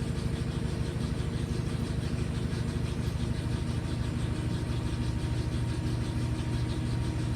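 LG Inverter Direct Drive washing machine in a high-speed spin: the drum turning fast with a steady hum and a fast, even pulsing.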